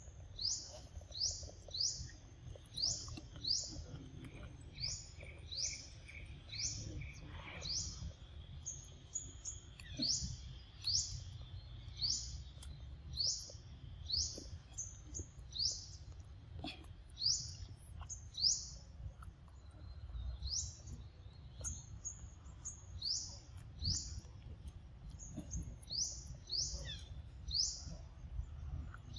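A bird repeating a short, high chirp that falls in pitch, about once a second.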